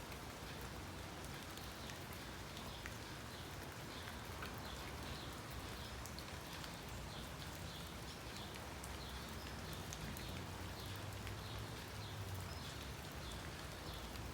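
Steady rain-like hiss, with faint, quick high chirps repeating from about eight seconds in.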